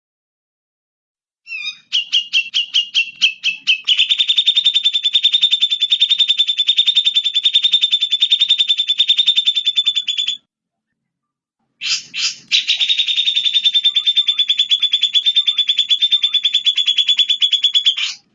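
A songbird's recorded song for training cage birds: a long, fast, evenly repeated high trill that starts with slower notes and speeds up. After a pause of about a second and a half, a second long trill follows.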